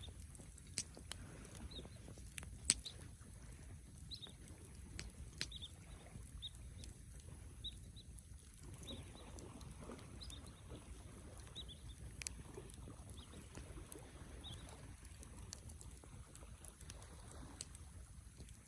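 Wood fire burning: scattered sharp crackles and pops, the loudest about three seconds in, over a low steady rumble, with faint short high chirps now and then.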